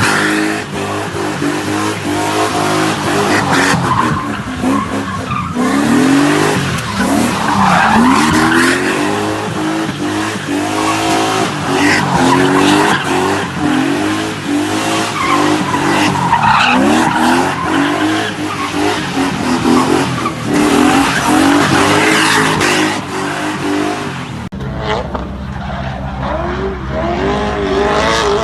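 BMW E30 engine revving hard, its note rising and falling again and again, with tyres squealing and skidding as the car is driven sideways. About three-quarters of the way in it drops to a steadier, lower running note, then revs up again near the end.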